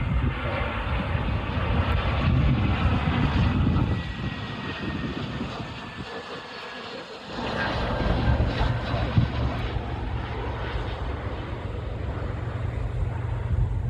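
Airbus A320 jet passing low on its landing approach: loud engine rumble with a faint falling whine, easing off about halfway through. A steady low drone comes in around the middle and carries on.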